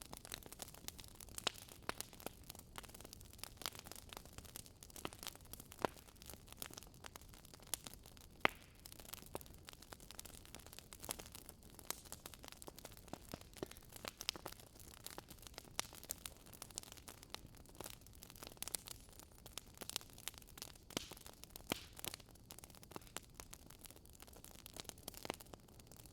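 Small wood fire crackling, with irregular sharp pops and snaps over a faint hiss.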